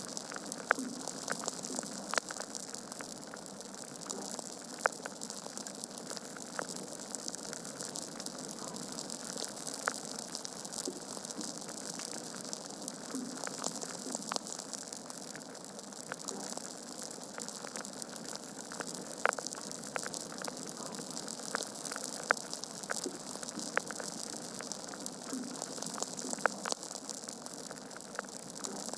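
Wood fire burning in a fireplace: a steady hiss of flame with irregular crackles and sharp pops from the logs, a few of them louder.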